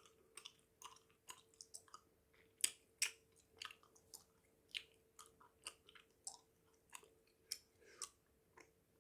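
Bubble gum being chewed close to the microphone: irregular wet clicks and smacks of the mouth, a few each second.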